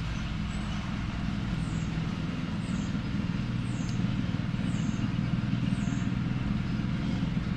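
A steady low mechanical hum with a constant pitch. Faint, short, high falling chirps come about once a second through the middle.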